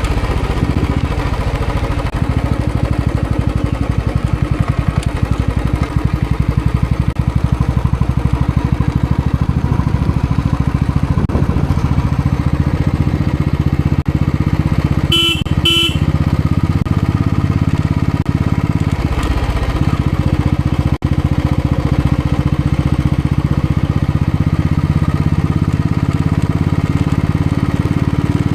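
Motorcycle engine running steadily during a ride. Two short horn beeps sound about halfway through.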